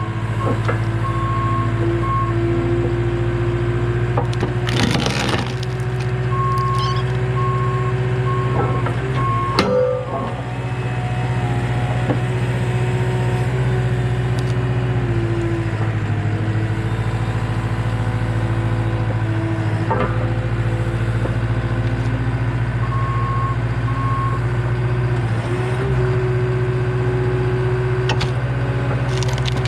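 Skid steer engine running steadily, its pitch shifting as it works the hydraulic splitter through big knotty ash rounds. Wood cracks and splits loudly several times, the loudest about five and ten seconds in. A beeping alarm sounds in short runs.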